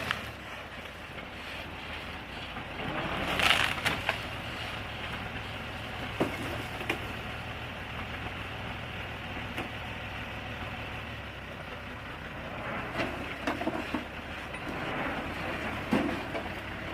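Bulldozer's diesel engine running steadily while it pushes through forest, with wood cracking and splintering now and then, loudest about three and a half seconds in and again near the end.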